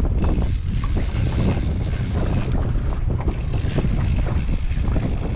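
Wind buffeting the microphone, a steady deep rumble over the wash of choppy sea around a small boat.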